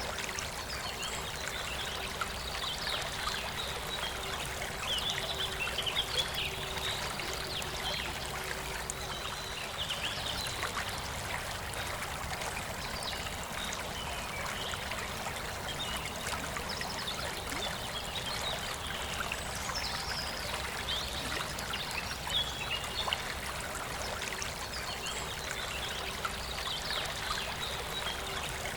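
Forest river flowing steadily, with birds singing short high phrases every few seconds over the water.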